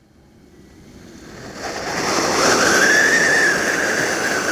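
Small siren firework going off: a hissing rush that builds from near silence over the first two seconds, with a whistle over it that rises slightly, then sags in pitch near the end.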